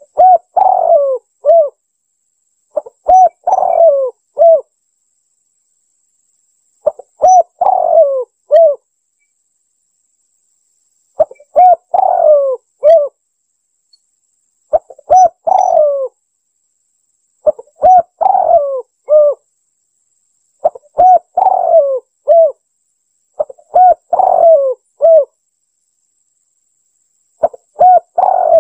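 Spotted dove (tekukur) cooing: a phrase of several short coos, about a second and a half long, repeated nine times at roughly three-and-a-half-second intervals with silence between.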